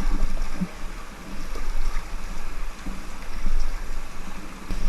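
Inflatable raft on a river, paddles stroking through the water as the crew paddles forward, with a steady low rumble underneath.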